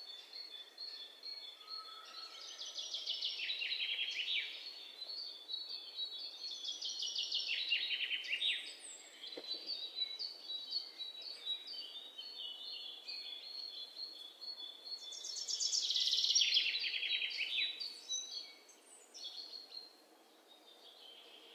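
Songbirds singing: bursts of rapid trills that fall in pitch, three louder phrases among quieter chirping, over a faint hiss.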